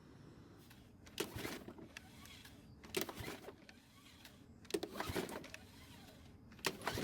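Lawn mower's recoil starter rope pulled four times, the small engine turning over with a short whirr on each pull without starting. The rope is hard to pull, which the owner puts down to valve clearances being off.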